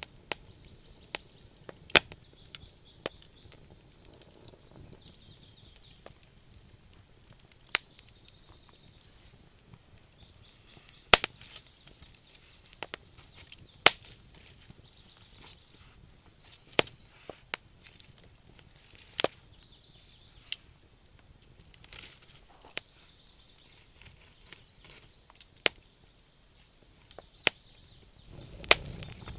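Wood fire burning in a stove, crackling with sharp, irregular pops every second or so over a faint hiss.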